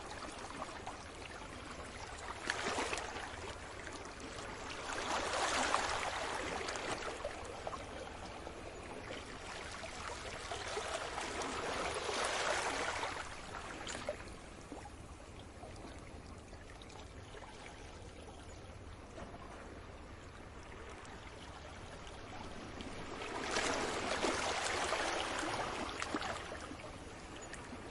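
Sea waves washing onto the shore: a steady hiss of water that swells into a louder surge and falls back every several seconds, about four times.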